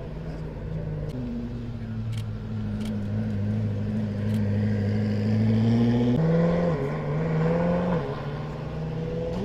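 Koenigsegg Jesko's twin-turbocharged V8 running at low revs. Its note drops about a second in and climbs slowly, then jumps higher about six seconds in before falling back near the end.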